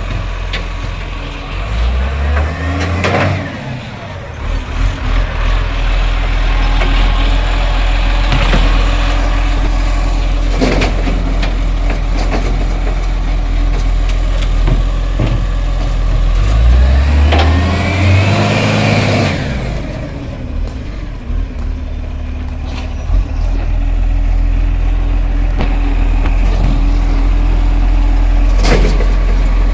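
Garbage truck engine running low and steady, revving up and back down twice, once near the start and once past the middle, with a few sharp knocks in between.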